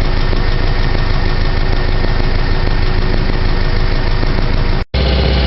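Subaru EJ22 flat-four engine idling steadily at operating temperature, with the electric radiator fans running. The sound cuts out for a moment near the end, then carries on.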